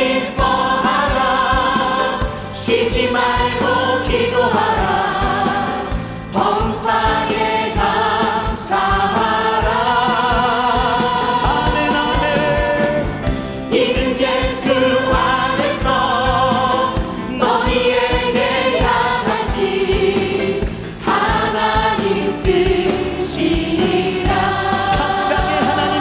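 A choir and congregation singing a Korean gospel hymn in unison phrases over band accompaniment.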